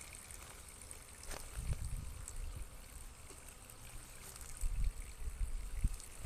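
Wind buffeting the microphone, a low rumble that swells in gusts, with a few faint clicks.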